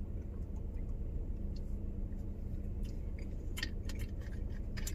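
A man chewing food close to the microphone, with scattered short clicks that grow sharper near the end, over a steady low hum.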